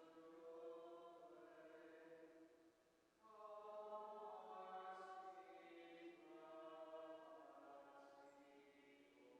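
Faint slow chant-like singing by a group of voices, in long held phrases with a short breath pause about three seconds in.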